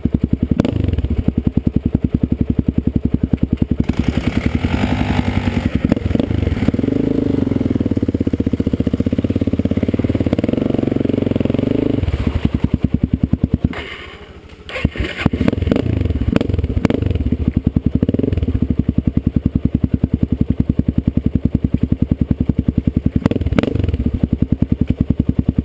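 Two-stroke Yamaha YZ125 dirt bike engine running with rapid, even firing. From about four to twelve seconds in, an engine revs louder, rising and falling. It dips briefly about halfway through.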